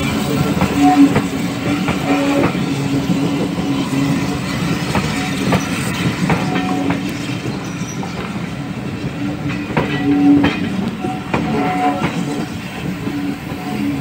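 Steam-hauled passenger train pulling out and its coaches rolling slowly past, wheels clicking irregularly over the rail joints, over a steady low hum.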